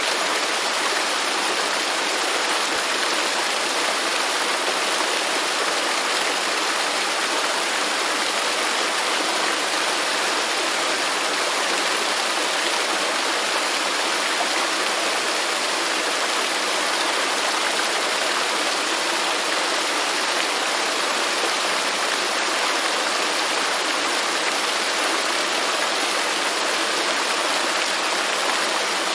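Waterfall rushing steadily: an even, unbroken roar of falling water with no changes.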